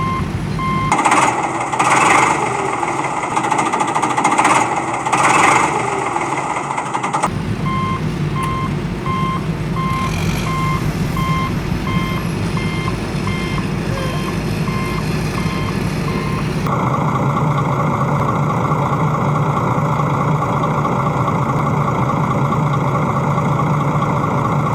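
Vehicle reversing alarm beeping steadily over a running truck engine. Four loud noisy blasts interrupt the beeping in the first few seconds, and about two-thirds of the way through the beeping stops and a different steady engine sound takes over.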